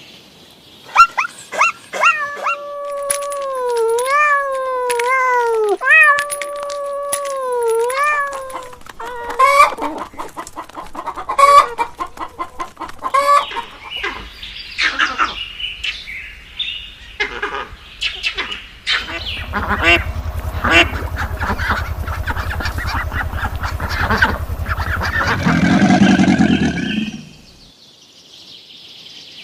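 Chickens clucking and calling, with a rooster crowing, in a series of separate calls. Several seconds of steady low hum come in past the middle.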